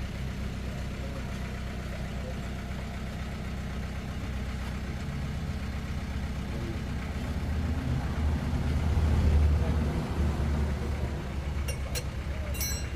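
Vehicle engine idling steadily, getting louder for a couple of seconds past the middle, with a few sharp clicks near the end.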